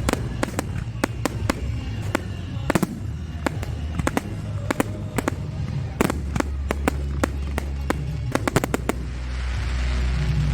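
Fireworks bursting in rapid succession: many sharp bangs and crackling pops over a steady low rumble, with a hissing crackle building near the end.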